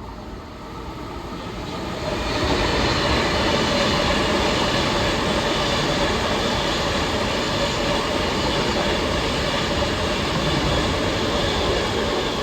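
Long Island Rail Road train running past on the tracks, its wheel and rail noise building over about two seconds, holding steady and loud, then starting to ease off near the end.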